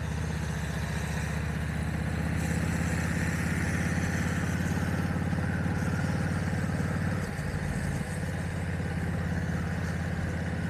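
Motorcycle engine running steadily while riding, picked up by a microphone inside the rider's helmet. The engine note dips briefly about seven seconds in.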